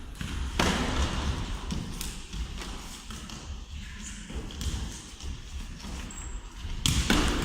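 Mini-football ball being kicked and bouncing during play, sharp thuds with the loudest about half a second in and another near the end, and a few softer knocks between.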